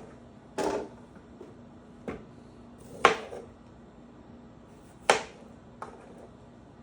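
A kitchen knife chopping down onto a cutting board, about four sharp knocks spaced one to two seconds apart, the way zucchini ends are cut off.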